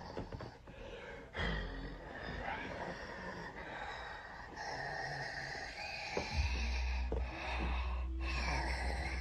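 A person making quiet breathy snorts, gasps and wheezes while acting out a transformation into a wolf. A low steady rumble joins about six seconds in.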